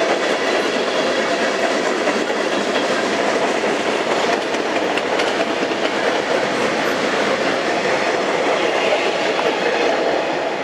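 Train rolling along the track: a steady rail rumble with wheel clatter over the rail joints.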